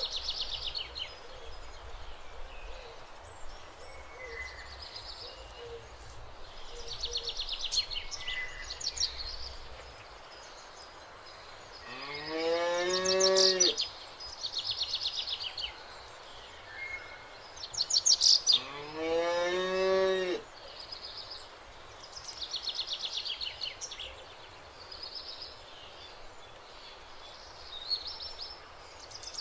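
A cow mooing twice, two long calls of about two seconds each that rise in pitch, a few seconds apart in the middle. Birds chirp repeatedly in the background.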